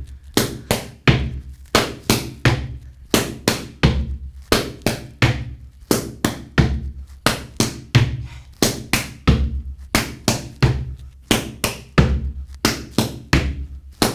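Gumboot dance body percussion: hands slapping rubber boots and legs, with boots stamping on a platform, in a steady repeating pattern of about two to three sharp strikes a second, many with a low thud.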